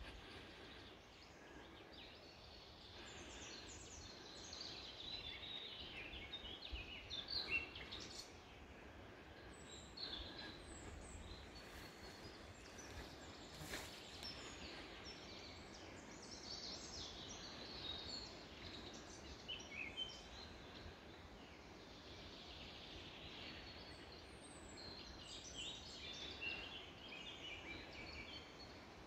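Birds calling in outdoor ambience: quick high chirps over a faint steady background hiss, coming in several bursts.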